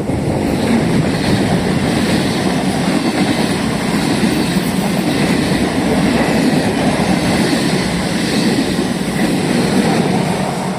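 Train passing close by: a loud, steady noise of wheels running on the rails that builds just before and eases off near the end.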